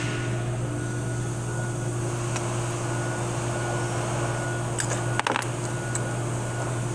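Steady hum of a small running motor, such as a fan, with one short click about five seconds in.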